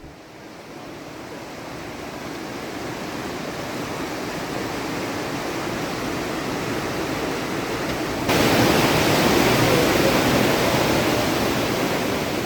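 Rushing white water of the Partnach river in its narrow gorge, a steady noise that grows gradually louder, then jumps suddenly louder about eight seconds in and eases off near the end.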